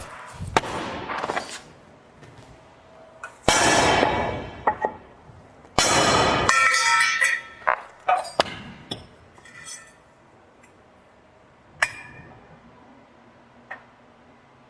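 Steel axe heads knocking and clinking, with short metallic rings, among three louder noisy bursts about a second long.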